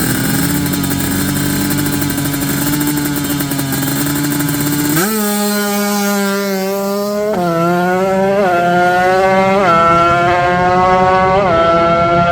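Racing motorcycle engine held at steady revs, then about five seconds in it launches hard and accelerates, the pitch climbing and dropping back at each of four gear changes.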